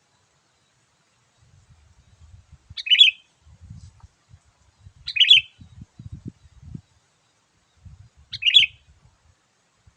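Sooty-headed bulbul calling: three short, bright phrases, two to three seconds apart.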